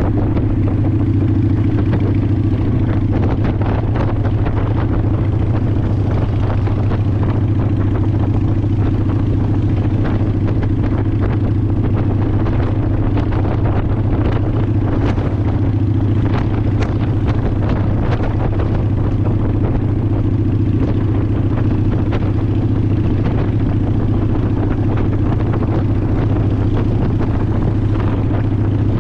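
Honda Shadow ACE 750 V-twin engine running at a steady pitch while cruising, with wind buffeting the microphone.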